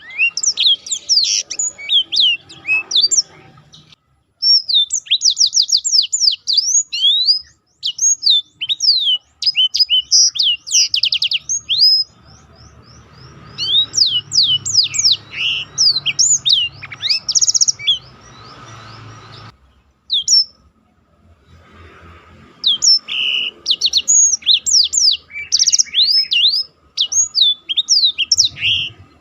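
Black-throated canary (blackthroat) singing a fast, high-pitched song of rapid chirps and trills, in long phrases broken by a few short pauses.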